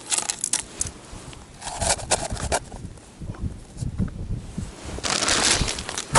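Close handling noises: scattered scrapes and small clicks, then a denser rustling in the last second or so.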